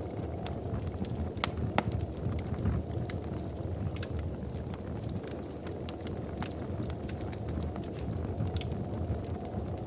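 Fireplace fire crackling: a steady low rumble of flame with scattered sharp pops, two louder ones about a second and a half in.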